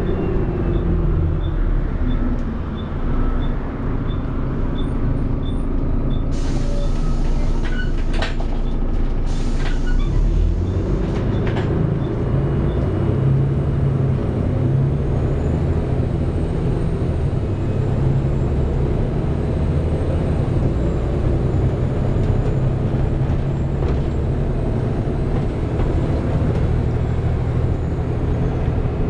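Volvo B7TL double-decker bus heard from on board: its diesel engine runs as the bus slows, with an indicator ticking about twice a second. A long hiss of compressed air comes about six to ten seconds in, then the engine pulls hard and steady as the bus drives on.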